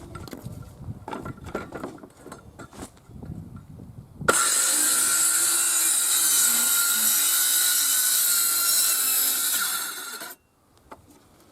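A few seconds of irregular knocks and handling, then a power tool starts suddenly, runs loud and steady for about six seconds, and cuts off.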